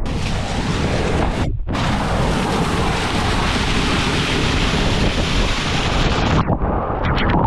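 Heavy tropical rain pouring, with wind buffeting the microphone into a low rumble. There is a brief break about a second and a half in, and the hiss thins near the end.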